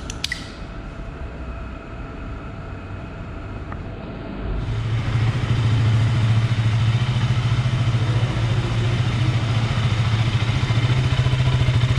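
KTM RC 200's 200 cc single-cylinder engine starts about four seconds in and settles into a steady, bassy idle through its underbelly exhaust. A few clicks come right at the start, before the engine fires.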